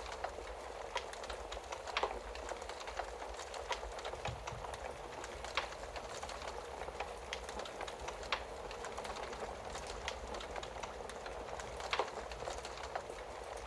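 Wood fire crackling in a fireplace: a steady hiss of burning with sharp pops scattered throughout, the loudest a few seconds apart.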